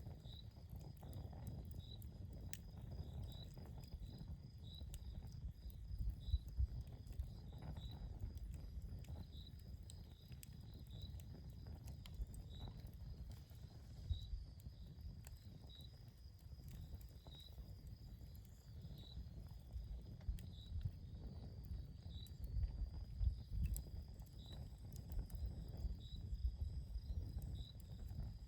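Campfire burning with soft crackling and scattered sharp pops, a few louder pops now and then. A cricket chirps steadily behind it, a short high chirp a bit more than once a second.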